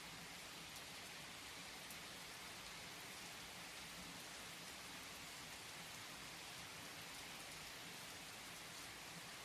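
Steady, faint rain: an even hiss of falling rain with a light patter of individual drops.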